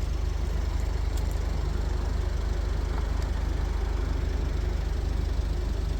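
Steady low rumble of an idling engine, even and unchanging throughout.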